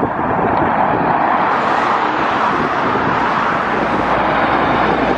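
Classic ERF diesel lorry driving past close by: a loud, steady rush of engine and road noise.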